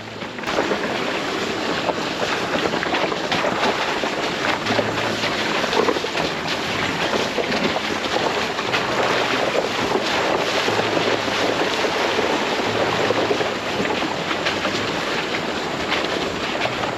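Steady rushing of wind on the microphone, with road noise, as from a camera on a moving off-road vehicle. Short low hums come and go underneath.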